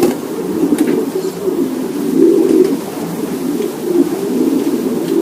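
Many racing pigeons cooing together, a continuous overlapping low cooing, with a few faint clicks.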